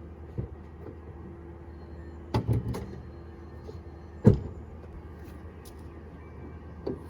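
Bonnet of an Audi RS4 being opened: a small click, a quick run of knocks about two and a half seconds in, then one loud clunk a couple of seconds later, over a low steady hum.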